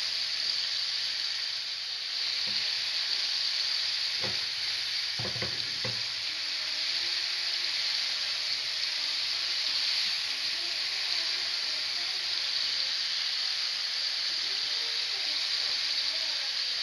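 Small chicken cubes coated in tikka masala sizzling steadily in hot oil in a frying pan as they are browned. A few short knocks of the spatula against the pan come about four to six seconds in.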